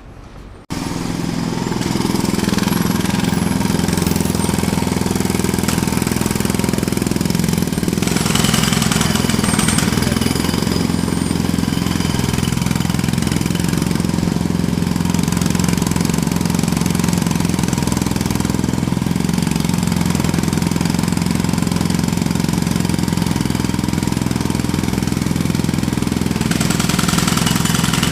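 Jackhammer starting up suddenly about a second in, then hammering steadily and loudly without a break.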